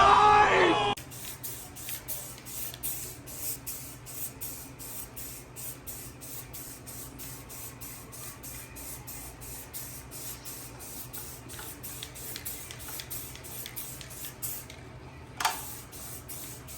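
Aerosol spray paint can spraying red paint in short hissing bursts, roughly three a second, laying light coats. A brief loud voice-like sound comes at the very start.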